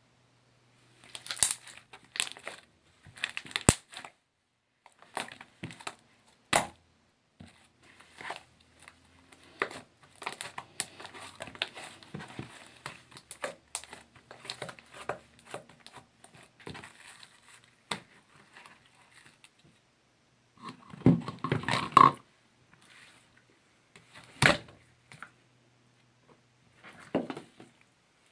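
Hands squeezing, poking and stretching slime, making irregular crackles, pops and squishes, with a louder run of crackling a little past the 21-second mark.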